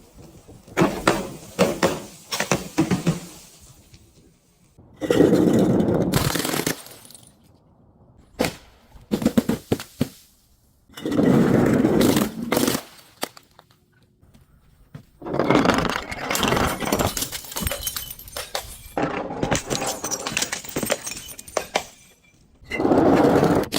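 Glass bottles and crunchy objects being crushed and breaking, in about five bursts of crunching a second or two long, with short runs of sharp cracks between them.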